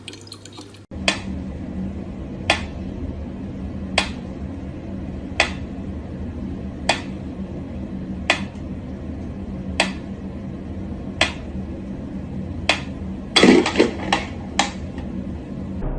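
Water dripping at an even pace, about one drop every second and a half, over a low steady hum. Near the end comes a quick cluster of louder splashes or knocks.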